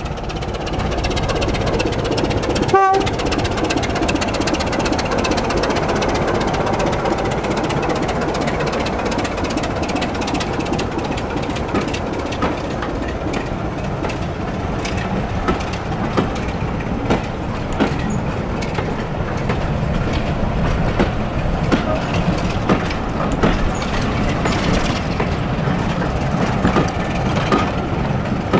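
Diesel-hauled train running past on the track, a continuous heavy rumble that builds over the first couple of seconds, with sharp clicks of wheels over rail joints through the second half.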